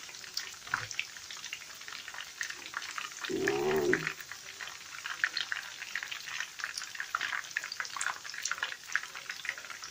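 Pork meatballs deep-frying in vegetable oil: a steady sizzle with a constant crackle of small pops. A short voice-like sound breaks in about three and a half seconds in.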